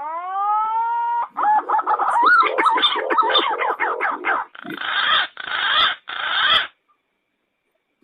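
Recorded lure call of a wild pigeon. It opens with a single rising whistled note held for about a second, then a quick run of warbling, wavering whistles, then rougher notes, and stops about a second before the end.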